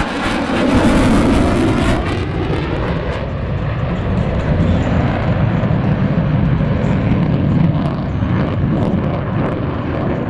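F/A-18 Super Hornet's twin turbofan jet engines heard from the ground as it flies its display, loud throughout. A harsh high hiss is strongest for the first two seconds and then fades, leaving a steady deep rumble.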